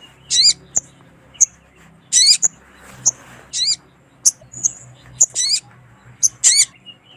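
Female sogon (spiderhunter) calling: sharp, very high single chirps mixed with louder, quick wavering phrases every second or so, the kind of call used to draw in a male.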